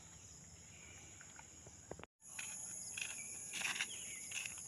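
Steady high-pitched insect chorus of crickets or cicadas, cutting out completely for a moment about two seconds in. A few footsteps scuff on the dirt track in the second half.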